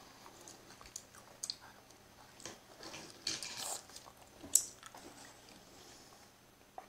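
A small child chewing crunchy spicy green mango, with scattered wet clicks. A short rustling hiss comes in the middle, and one sharp click just after it.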